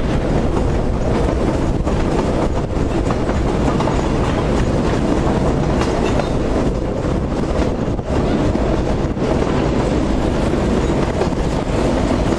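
Narrow-gauge train running, heard from on board: a steady rumble of wheels on track, with clatter as the wheels cross rail joints and points.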